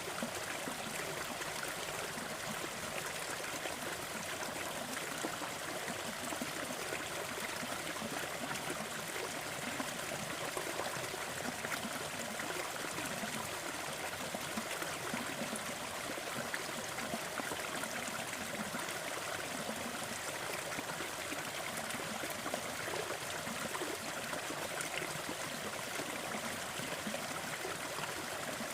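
Small forest waterfall and stream: water splashing and trickling in a steady, even rush.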